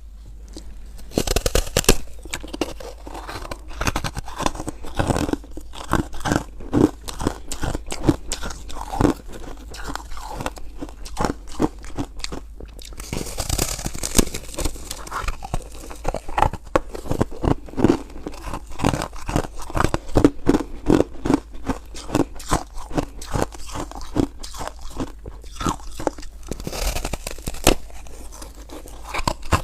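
Close-miked biting and chewing of frozen ice: an irregular, continuous run of sharp crunches, starting about a second in.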